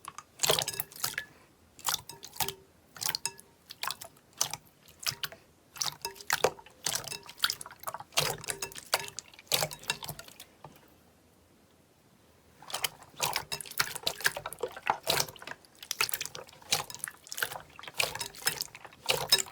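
Slime being handled by hand, making irregular wet clicks and pops, with a quiet break of about two seconds around the middle.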